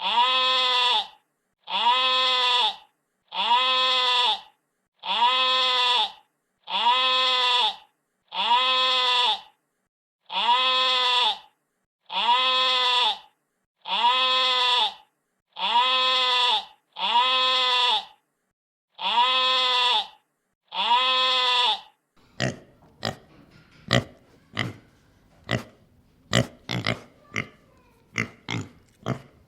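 One drawn-out animal call of about a second, repeated unchanged about thirteen times. About twenty-two seconds in it gives way to a pig grunting in short, irregular grunts.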